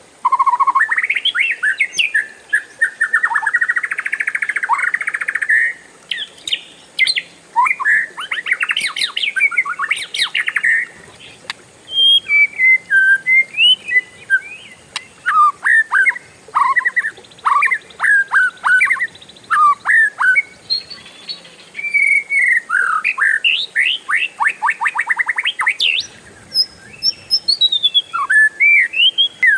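Oriental magpie-robin (kacer) singing a long, varied song almost without pause: rapid rolling trills alternating with sharp whistled notes that drop in pitch.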